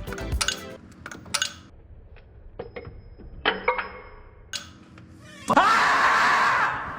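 Hand tools clinking and knocking on metal during work on the wiper motor's mounting bolts, with a few sharp metallic pings. About five and a half seconds in comes a louder, noisy sound lasting about a second.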